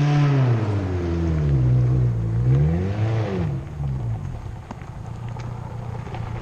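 1996 Toyota Celica's four-cylinder engine revving up and down several times, then settling to a steadier, lower running note about halfway through.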